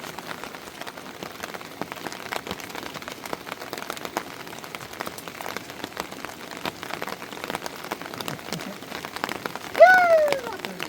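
Steady rain falling, with many drops pattering on nearby surfaces. Near the end a short high call rises and falls, a voice or animal cry, and it is the loudest sound.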